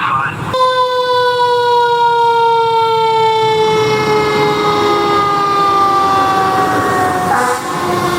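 Fire engine siren wailing, starting abruptly about half a second in and falling slowly and steadily in pitch for several seconds, then swinging back up near the end.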